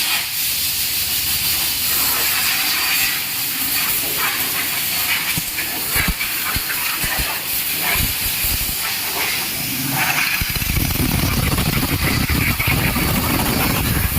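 Car wash water jets spraying with a steady hiss, a few knocks through it; about ten seconds in a low rumble joins.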